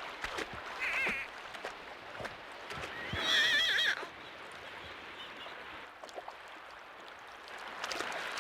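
Beluga whale calls: wavering, warbling whistles, one short around a second in and a longer, louder one at about three to four seconds, with scattered clicks between.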